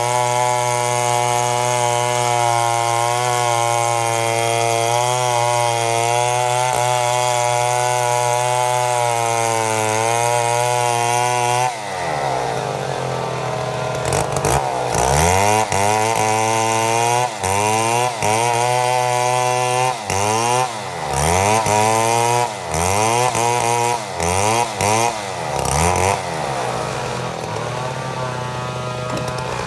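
Chainsaw milling a mahogany log: the engine runs steadily under load, then about twelve seconds in its pitch drops and it is revved up and down again and again, settling to a lower, steadier run near the end.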